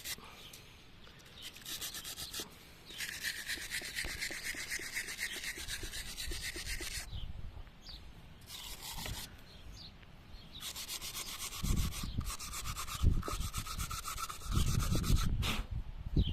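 Hand-tool work on a truck engine: several rasping, scraping bursts of a few seconds each, with low thuds in the last few seconds.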